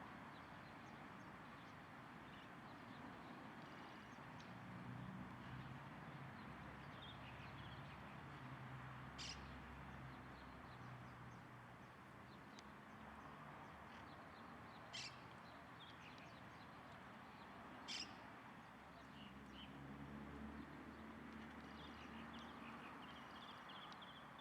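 Faint outdoor background with a low hum and scattered small bird chirps, broken by three short sharp calls or clicks about nine, fifteen and eighteen seconds in.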